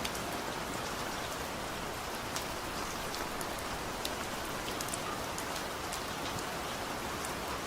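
Steady heavy rain falling, a constant hiss with scattered sharp drops striking close by.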